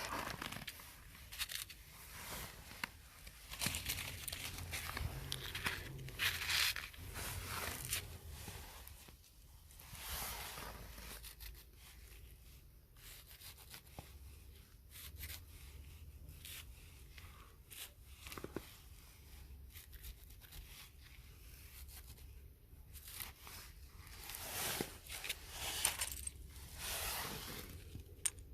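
Irregular tearing and rustling, a run of short scratchy bursts of varying strength, busier in the first third and again near the end.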